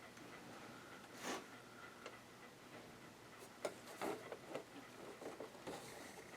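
Faint, scattered clicks and light knocks from small sewing-machine parts being handled while the machine is being taken apart.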